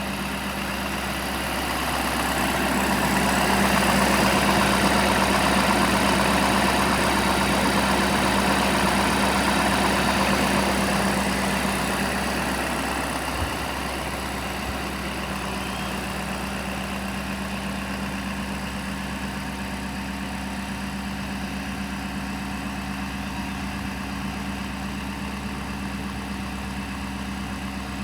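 6.7-litre V8 diesel engine of a 2016 Ford F-550 Super Duty truck idling steadily. It grows louder a couple of seconds in, stays up for about ten seconds, then eases back to a steady idle.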